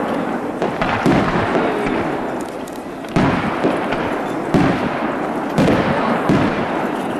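Aerial fireworks shells bursting overhead: a string of loud booms, about five over a few seconds, each trailing off before the next.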